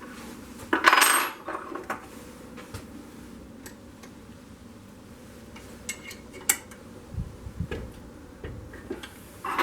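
Metal hand tools and small steel parts clinking and clattering: a loud clatter with a bright ring about a second in, scattered light clicks and knocks, and another clatter near the end.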